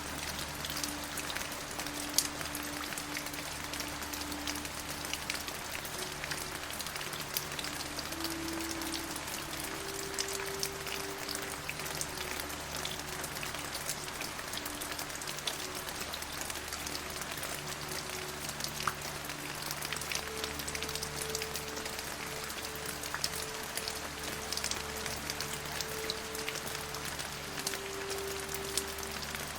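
Steady rain with many individual drops tapping, under soft, low sustained tones that shift pitch every few seconds, like a gentle music pad. One sharp drop stands out about two seconds in.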